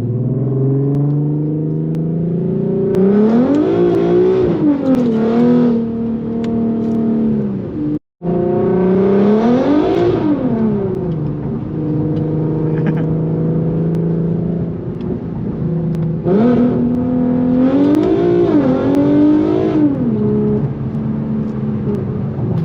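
Infiniti Q50 engine revving hard under load, its pitch climbing and falling back in repeated surges while driven and drifted. Steady cruising between the pulls, and the sound cuts out completely for a moment about eight seconds in.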